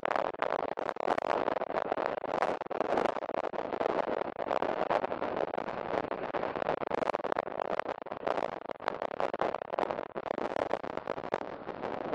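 Steady rain pattering, a dense crackling patter of drops.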